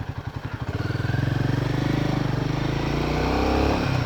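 Motorcycle engine idling with an even beat of about a dozen pulses a second, then picking up revs and running louder and steady from under a second in as the bike moves off, with a brief change in pitch near the end.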